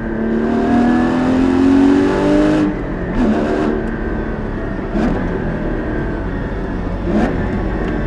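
Porsche 981 Cayman GT4's 3.8-litre flat-six with sports exhaust, accelerating hard with a rising engine note for about two and a half seconds. After that the note dips and recovers three times, about two seconds apart, as the gears are changed.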